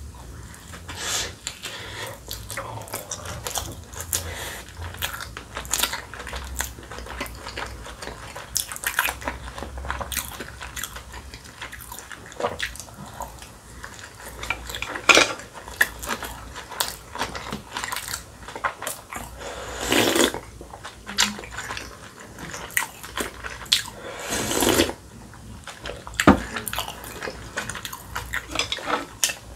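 Close-miked chewing of a large steamed dumpling: a steady run of wet mouth clicks and smacks. Two longer rushes of noise come in the second half.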